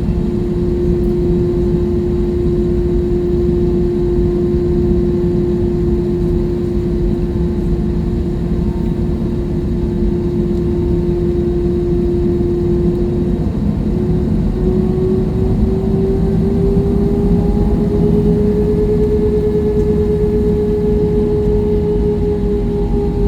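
Jet airliner engines heard inside the cabin: a loud, steady low rumble with a whine on one pitch. About two-thirds of the way in, the whine steps up and slowly climbs higher as the engines spool up.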